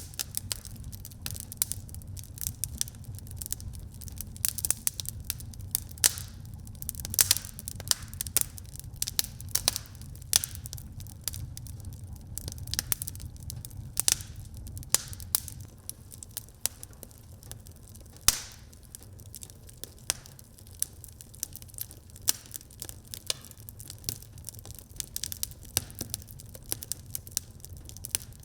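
Wood fire in a fireplace crackling, with frequent sharp pops and snaps, a few of them louder, over a steady low rumble of the burning fire.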